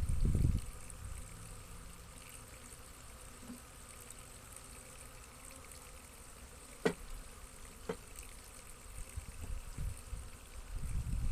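Honeybees buzzing around a beehive, with two bees zipping briefly past close by about two-thirds of the way through. Low rumbling of wind or handling on the microphone at the start and near the end.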